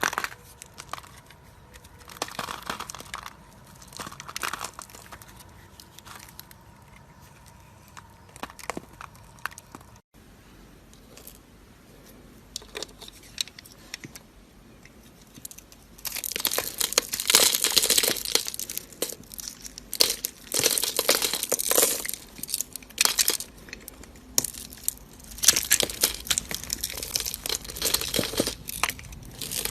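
Knife cutting and carving dry soap: crackly crunching and scraping strokes, sparse at first, then dense and louder from about halfway through.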